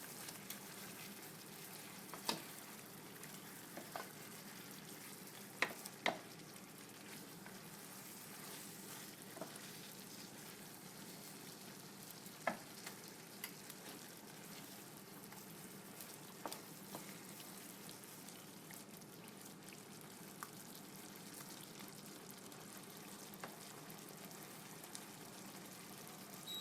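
Chicken pieces in a tomato and yogurt masala sizzling steadily in a pan, with scattered sharp clicks of a spoon against the pan as it is stirred now and then.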